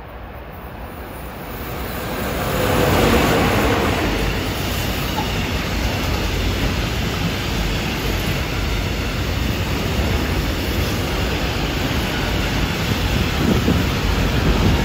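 Freight train of tank wagons hauled by two DB class 111 electric locomotives passing close by: the sound builds as the locomotives come up and peaks about three seconds in, then settles into the steady rolling rumble of the wagons' wheels on the rails.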